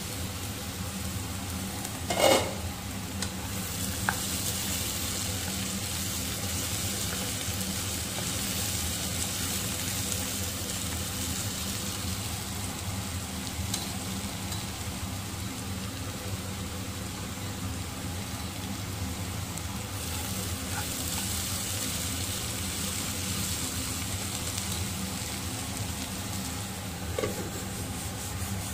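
Diced carrots frying and sizzling in a nonstick pan while a spatula stirs them. A loud ringing clink about two seconds in, and a smaller one near the end as the glass lid goes back on the pan.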